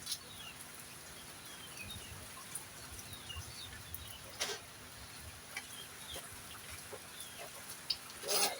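Poultry and small birds calling: many faint short chirps, with three louder short calls, the loudest near the end, over a steady hiss of heavy rain.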